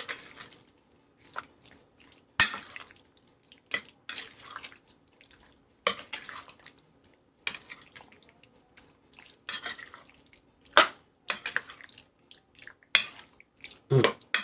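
A spoon stirring and folding mayonnaise-dressed potato salad in a bowl: irregular wet squelches, roughly one a second, with a sharp knock about two and a half seconds in.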